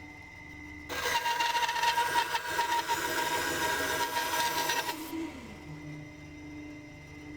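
Carbatec 10-inch bandsaw cutting through a piece of wood: a loud rasping cut starts about a second in and lasts about four seconds, with the running hum of the saw before and after it.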